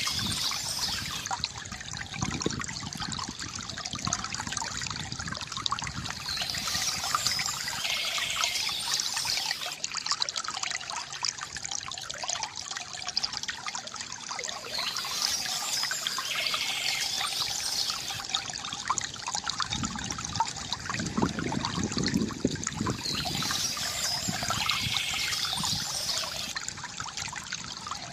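Water trickling and gurgling steadily from a bamboo fountain, with short bird chirps coming back about every eight seconds.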